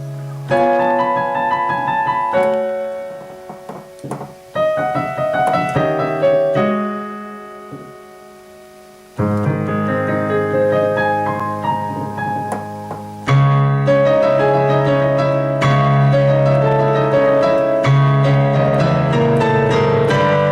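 Background piano music: a gentle melody over chords that dies away to a soft lull about eight seconds in, then comes back fuller and louder.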